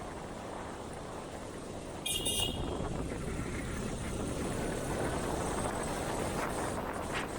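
Steady engine, wind and road noise of a motorcycle riding through city traffic, with one short, high vehicle-horn toot about two seconds in; the running noise gets a little louder after it.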